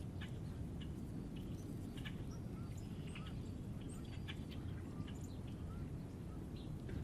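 Small songbirds chirping and calling at a backyard feeder, many short chirps and a few brief whistled notes, over a steady low outdoor rumble.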